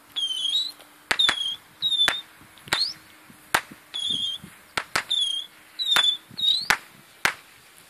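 A bird calling over and over in short whistled notes that bend up and down, with about ten sharp, sudden cracks scattered among the calls.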